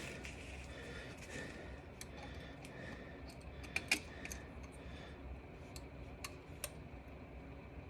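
Faint, scattered clicks and ticks of hand tools and small hardware being handled during starter wiring work, with the sharpest clicks about four seconds in.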